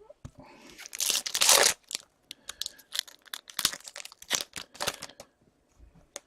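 A hockey card pack wrapper being torn open and crinkled, followed by a run of short sharp snaps and flicks as the cards are handled.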